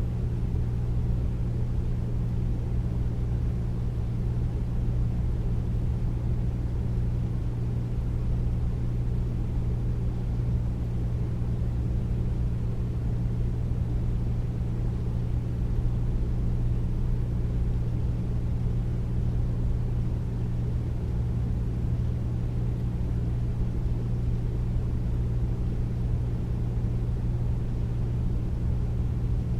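Air conditioner running steadily: a deep, even hum with a low rumble and a soft rush of noise beneath it.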